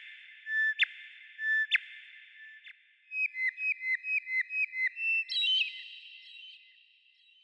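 Bird song of clear whistled notes: three spaced notes in the first two seconds, then a quick run of about ten notes, with a second, higher-pitched bird joining about five seconds in before the song fades.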